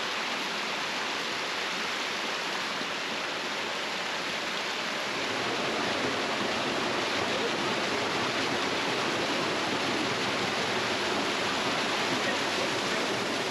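Steady rush of flowing water, a stream or small cascade, getting slightly louder about five seconds in.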